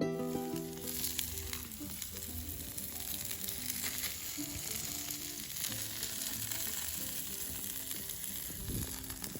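Wild boar kebab meat sizzling steadily over an open campfire, a continuous frying hiss.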